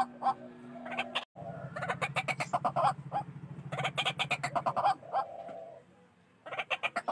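White-breasted waterhen (ruak-ruak) calling: loud, rapid runs of short repeated clucking notes in several bursts, with a sudden break about a second in and a pause near the end. It is a lure call for attracting waterhens.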